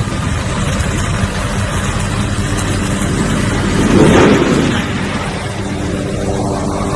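Loud, steady engine noise with a low hum, swelling briefly about four seconds in.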